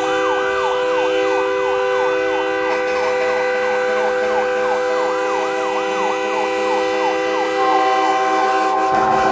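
Truck-mounted electronic siren yelping, rising and falling about three times a second, over several air horns held as a steady chord. Near the end the siren stops and a single higher horn tone carries on.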